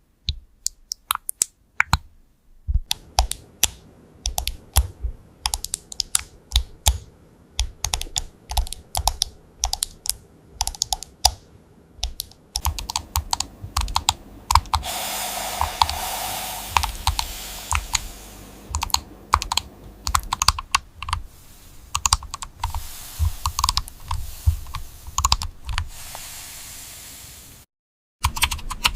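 Typing on a computer keyboard: a few scattered key clicks, then quick, continuous keystrokes. About halfway through, a steady hiss comes in under the typing. Near the end the sound cuts out completely for a moment, then the typing resumes.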